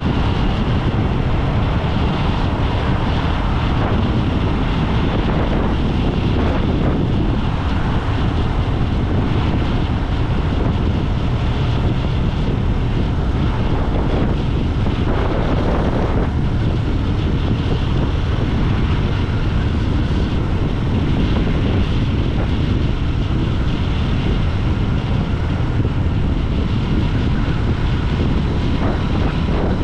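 Wind rushing over the microphone on a moving motorcycle, with engine and road noise underneath. A brief louder rush comes about halfway through.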